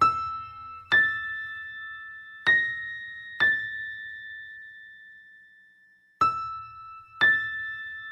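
Background music: slow, sparse piano notes, each struck once and left to ring out, six in all, with a pause of nearly three seconds midway.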